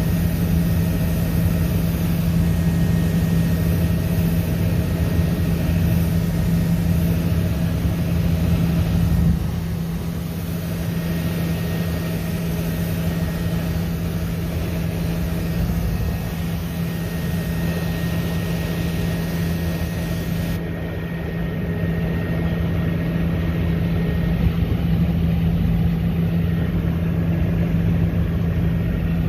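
Helicopter in flight, a steady loud drone of engine and rotor with a constant low hum.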